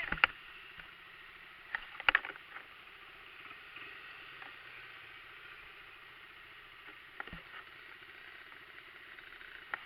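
A dirt bike engine running faintly and steadily, with a few short, sharp knocks near the start, about two seconds in and about seven seconds in.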